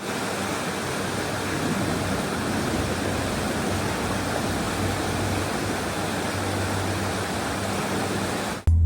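Steady, even rushing noise with a faint low hum underneath, cutting off abruptly near the end.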